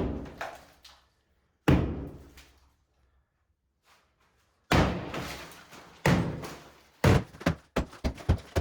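Heavy thuds, each fading out, a few seconds apart, then a quick run of sharper knocks near the end.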